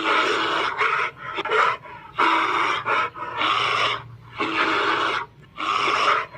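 An animal making a rapid series of harsh, breathy calls, like loud panting, each burst about half a second long.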